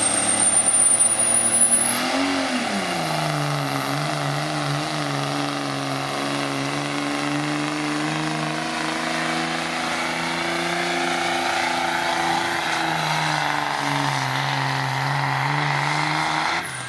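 Dodge diesel pickup truck pulling a sled under full throttle, its engine held at high revs with a high turbo whistle over it. The engine note drops about two seconds in and then holds steady until the throttle is lifted and the sound cuts off sharply near the end.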